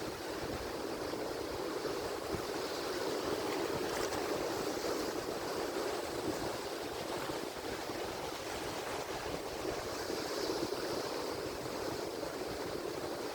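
Ocean surf: waves breaking and washing ashore in a steady, even rush that swells a little twice.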